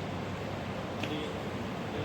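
Steady background hubbub of a crowded motor show hall, with a faint distant voice about a second in.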